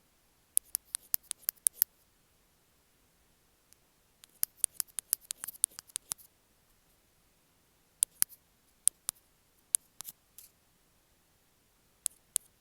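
Bamboo ear pick working against an earphone microphone, close up: quick runs of crisp clicks lasting a second or two each, with short quiet gaps between them.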